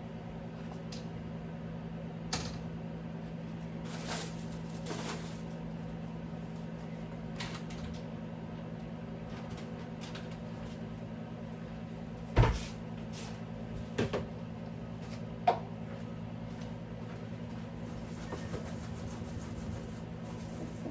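A handful of sharp knocks and clunks, the loudest about halfway through, as things are handled while a refrigerator is cleaned, over a steady low hum.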